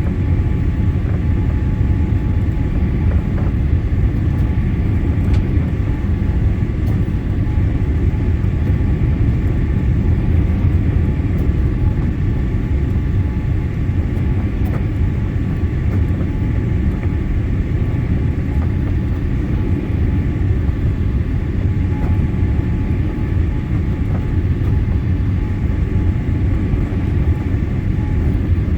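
Cabin noise inside a Boeing 787-8 airliner in flight: a steady low rumble of engine and airflow noise with faint steady whining tones above it.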